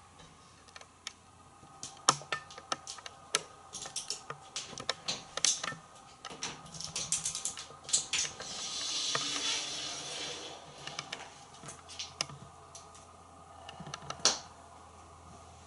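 African grey parrot's claws and beak clicking and tapping irregularly on a glass shower door and its frame as it climbs and grips. About eight seconds in comes a longer rubbing rush of two to three seconds as it slides down the glass.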